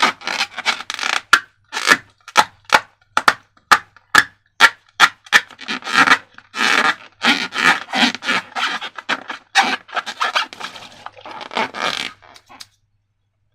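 A quick run of short rubbing and scraping strokes from hands working balloons and slime, about two or three a second, stopping near the end.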